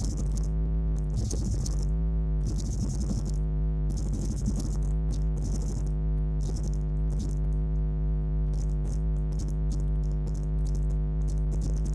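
Ford 351 Windsor SVO V8 idling steadily with a slight rhythmic lope. The exhaust headers are leaking at the gaskets.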